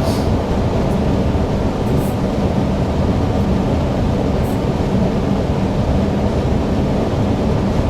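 Newag Impuls EN63 electric multiple unit running steadily along the line, an even rumble of wheels and running gear heard inside the driver's cab, with a few faint high ticks.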